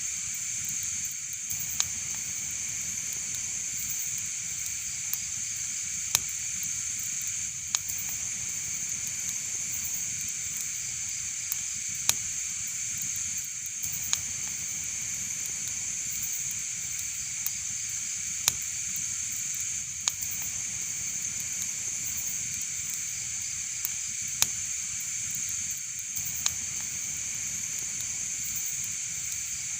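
Wood fire burning in a fireplace: a steady hiss with sharp crackling pops at irregular intervals, roughly one every second or two.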